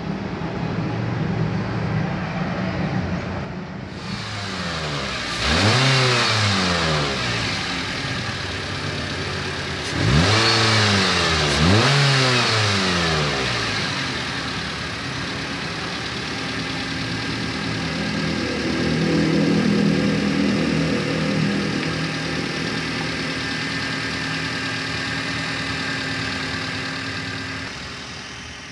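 Toyota Avanza four-cylinder engine idling, blipped three times so it revs up and drops back, then settling to a steady idle. It is running just after its burnt cylinder head gasket was replaced, being checked for the rough ticking knock.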